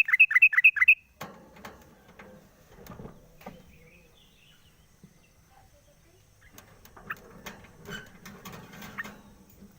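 Yellow-vented bulbul (trucuk) giving a quick run of about seven loud chirping notes in the first second, followed by scattered soft clicks and rustles.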